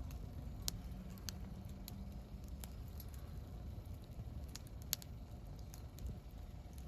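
Wood campfire burning, with scattered sharp pops and crackles, the two loudest about a second in and about five seconds in, over a low steady rumble.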